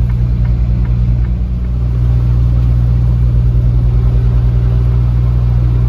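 Delivery truck's engine running steadily, heard inside the cab as a loud, pulsing low rumble while driving slowly on slushy roads. It eases slightly about a second and a half in.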